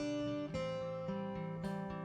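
Soft background music: gently plucked acoustic guitar, chord notes struck about once or twice a second and left to ring.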